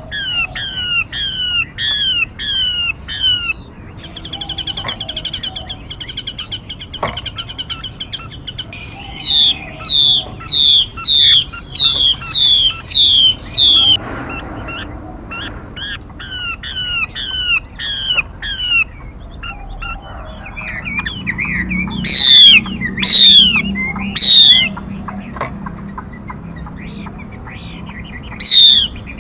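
Songbird calls used as a trapping lure: series of short down-slurred whistled notes about twice a second, a fast trill a few seconds in, and louder, sharper down-swept notes in runs of about one a second around the middle and near the end.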